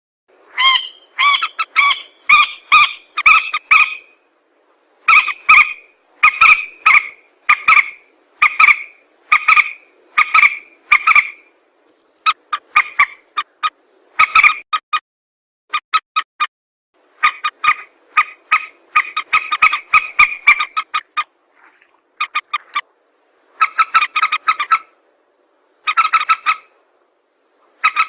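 Recorded lure call of a burung mandar (a rail or gallinule): short, loud calls repeated several a second in runs, with brief pauses between the runs.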